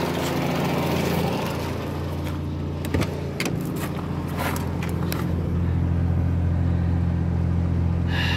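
Fiat Cinquecento engine idling warm with its electric radiator cooling fan switched on, showing that the fan cuts in after the cooling-system repair. A steady rushing noise fades about two seconds in, and a few light clicks and knocks come in the middle.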